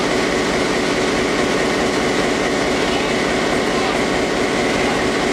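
Steady noise of a railway train with a constant, unchanging hum, alongside the chatter of people.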